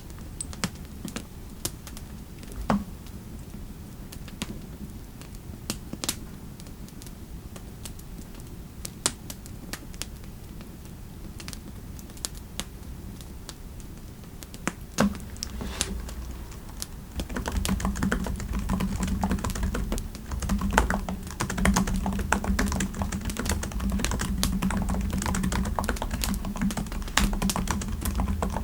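Scattered single clicks over a low steady fireplace background, then, about seventeen seconds in, steady fast typing on a computer keyboard.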